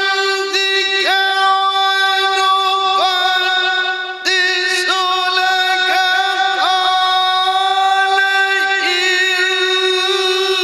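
A male Quran reciter's voice holding one long, high note in melodic tajwid-style recitation, decorated with quick ornamental turns. It breaks briefly about four seconds in and then resumes on the same pitch.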